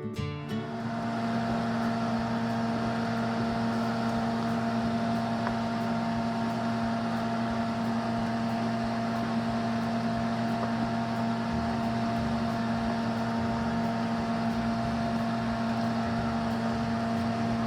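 A steady electric motor hum with a constant low tone over a whirring hiss, starting about half a second in and holding unchanged.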